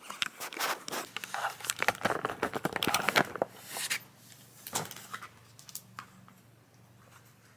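Crinkling and crackling of takeout food packaging being handled and opened: a dense run of crackles for about four seconds, then a few scattered clicks.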